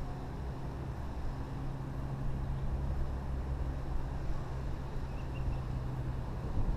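An engine running steadily at an even speed: a constant low drone with a steady hum.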